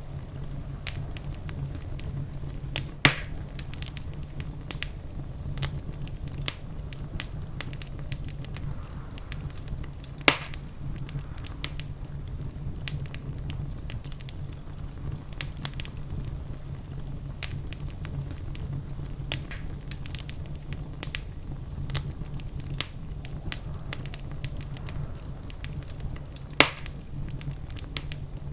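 Fireplace fire crackling steadily with many small snaps over a low rumble, with three louder pops: about three seconds in, about ten seconds in, and near the end.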